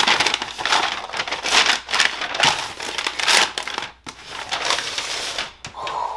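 Packaging being unwrapped by hand: a run of crinkling, rustling bursts.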